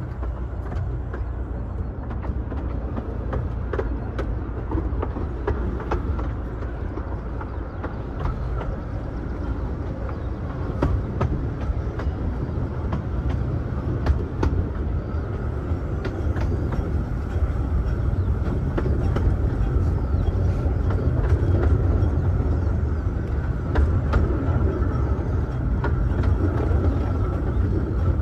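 A 15-inch gauge miniature railway carriage running along the track, a steady low rumble with scattered sharp clicks from the wheels on the rails. It gets a little louder in the second half.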